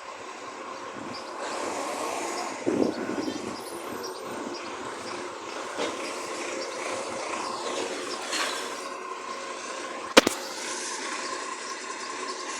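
Recycling garbage truck at work: steady mechanical running noise with a steady whine, a short clatter about three seconds in and a single sharp bang about ten seconds in.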